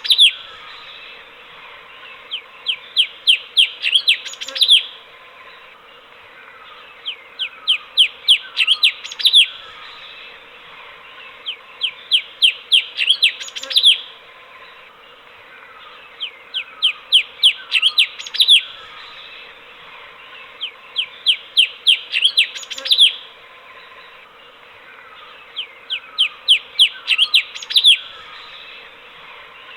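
Recorded song of a cucak cungkok, a bulbul kept as a master bird for training other songbirds. Each phrase is a quick run of about eight short, falling whistled notes that speed up and end on a louder note. The phrase repeats about every four and a half seconds over a faint steady hum.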